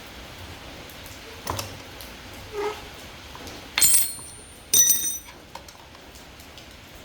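Two sharp metallic clanks about a second apart, each leaving a brief high ringing, as metal tools or parts are set down or struck. Before them come a light knock and a short squeak.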